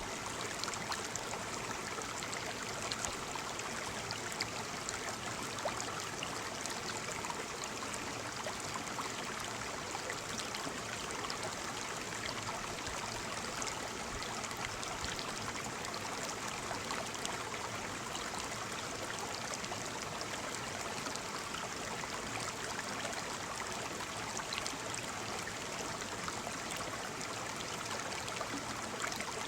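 Waterfall: a steady rush of falling water with small splashes scattered through it.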